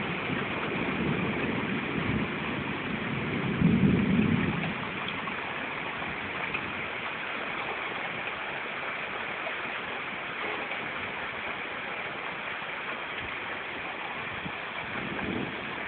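Steady heavy rain, with a low thunder rumble over the first four seconds or so that swells loudest about four seconds in and then dies away, leaving just the rain.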